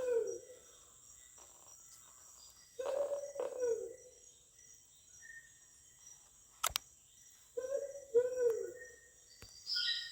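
Recorded Borneo ground cuckoo call played on a loop to lure the bird back: low, hooting two-note calls repeating about every five seconds, over a steady high insect hum, with one sharp click about two-thirds of the way in.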